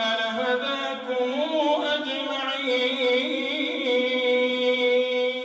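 Male imam's voice reciting the Quran in a melodic chant, drawing out a long vowel. The pitch wavers, then holds one steady note for the last few seconds before stopping abruptly.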